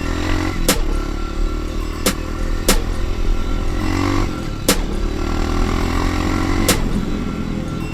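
Dirt bike engine running on a trail ride, its pitch climbing and falling as the throttle is worked. Sharp clacks come at irregular moments, a few seconds apart.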